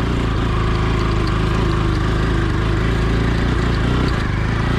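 Motorcycle engine running at steady revs while being ridden.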